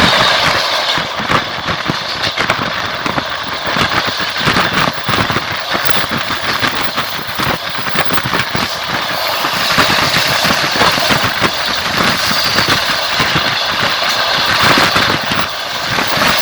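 Train wheels clattering on the rails, heard from inside a moving carriage at the window, with many short clicks over a steady rushing running noise.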